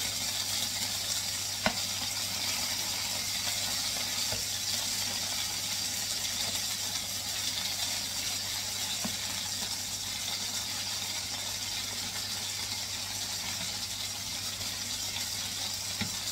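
Chicken breast pieces sizzling with a steady hiss as they fry in a pan, stirred with wooden spatulas that knock against it now and then, once sharply about a second and a half in.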